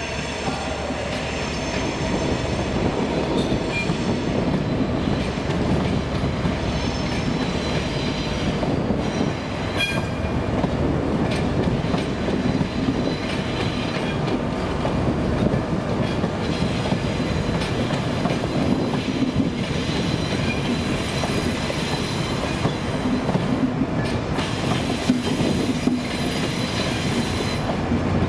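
A locomotive-hauled train running through the station: steady wheel-on-rail noise with rolling stock passing, a little louder after the first couple of seconds.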